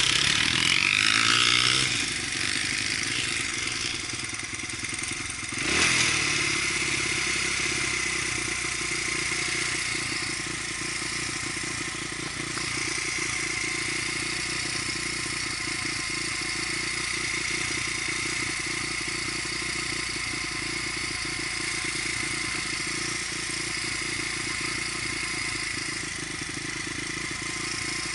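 Dirt bike engine running while being ridden, loudest in the first two seconds, with a brief sharp surge about six seconds in, then holding steady.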